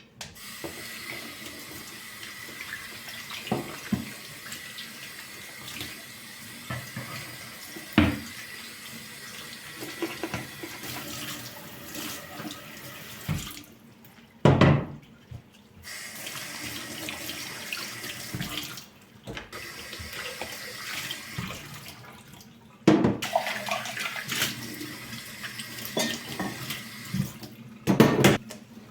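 Tap water running into a sink, stopping and starting several times, with occasional sharp knocks.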